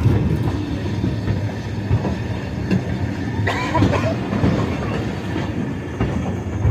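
Steady low rumble of an open-air railroad car rolling along the track, with scattered clicks of the wheels.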